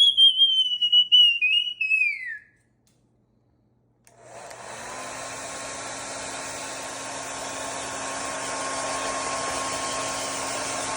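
A high whistle-like call held for about two seconds and falling in pitch at its end; then, about four seconds in, a hair dryer starts and runs steadily, a whooshing rush of air with a faint steady motor hum.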